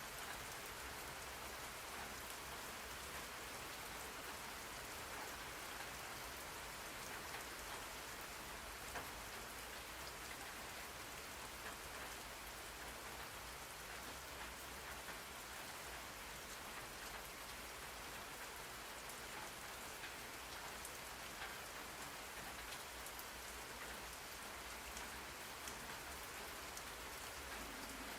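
Steady rain falling on a hard surface: an even hiss with scattered individual drop taps.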